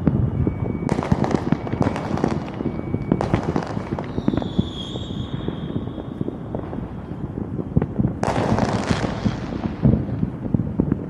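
Fireworks going off in quick succession: a dense run of bangs and pops with loud crackling flurries about one, two and three seconds in and again near the end, and a whistling tone in the middle.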